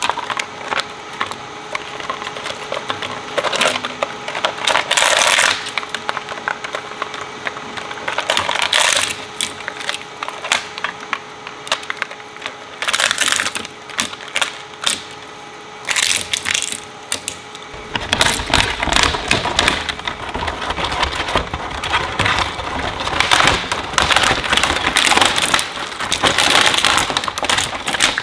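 Industrial shredder chewing up plastic toys: irregular cracks, snaps and crunching bursts over a faint steady motor hum. About two-thirds of the way in, the crunching turns dense and continuous.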